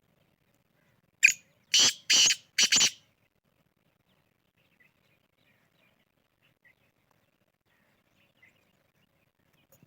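Black francolin (kala teetar) calling: a short harsh opening note followed by three loud grating notes in quick succession, the whole phrase lasting under two seconds.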